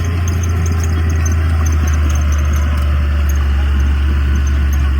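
Heavy diesel engine of earthmoving machinery running steadily under load, a deep, even drone.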